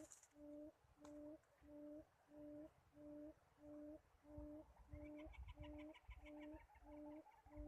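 A dove cooing: a low, even note about half a second long, repeated steadily about one and a half times a second, each ending with a slight rise. About five seconds in, a short fast chittering trill from a smaller bird joins in briefly.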